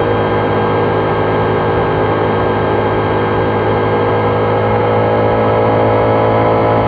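Triumph Trident 660's three-cylinder engine running under steady throttle, its pitch rising slowly as the bike gently gains speed.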